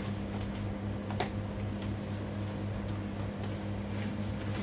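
Steady low mechanical hum from a running machine, with one sharp click about a second in.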